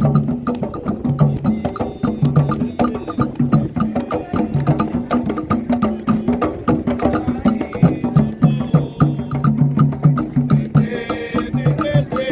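Candomblé atabaque drumming: hand drums beating a fast steady toque, with sharp high strikes keeping time over it.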